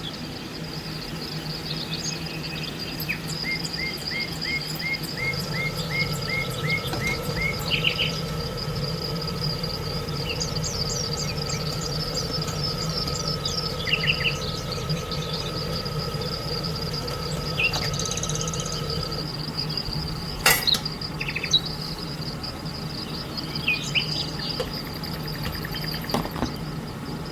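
Birds calling in short repeated runs of chirps over a steady high-pitched insect drone, with one sharp click about twenty seconds in.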